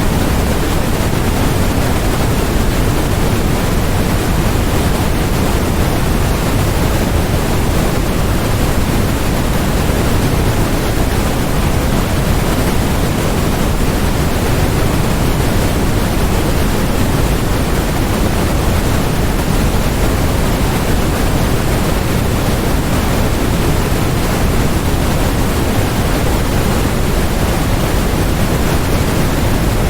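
Steady, unchanging electronically generated noise: an even hiss with no rhythm or events, heavier in the lows than in the highs.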